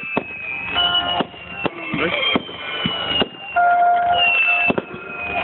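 Music playing, with sharp firework bangs and cracks cutting through it several times.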